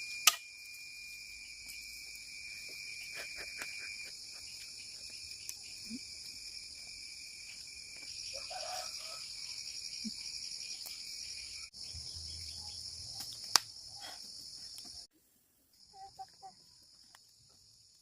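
Steady high-pitched insect chorus with a few faint clicks. It cuts off suddenly about fifteen seconds in, leaving near quiet with a few soft knocks.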